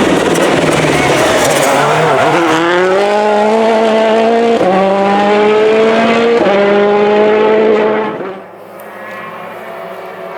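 A World Rally Car's turbocharged four-cylinder engine at full throttle, its note climbing through the gears with two quick upshifts about four and a half and six and a half seconds in. About eight seconds in, the sound falls off sharply to a quieter, steadier engine note.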